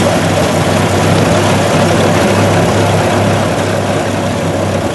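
Ford Model T's four-cylinder engine running with a steady low drone as the car drives along in gear, over a rush of wind and road noise.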